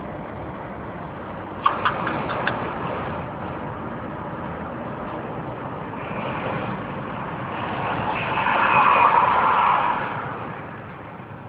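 Road traffic over a steady rush of noise: a motor vehicle passes, swelling louder about eight seconds in and fading near the end, with a few sharp clicks about two seconds in.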